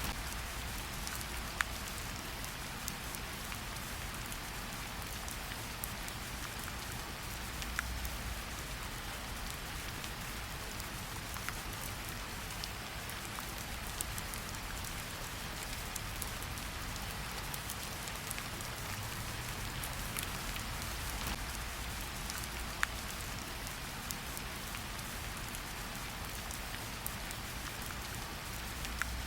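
Steady rain falling in a forest, an even hiss with many separate drops striking, some sharper ones standing out.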